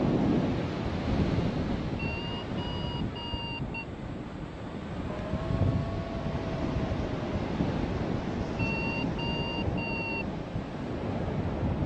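Strong wind buffeting the microphone in flight, with a paragliding variometer beeping over it: a run of four short beeps about two seconds in and a run of three near the end, the climb signal of rising air.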